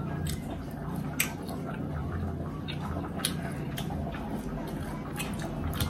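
Close-up wet chewing and mouth smacking of a person eating, with many short sharp clicks scattered throughout.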